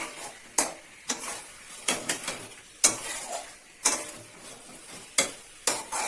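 Spatula stirring chicken pieces in a kadai, knocking and scraping against the pan about once or twice a second, with a faint sizzle between strokes as the masala-coated meat is fried down.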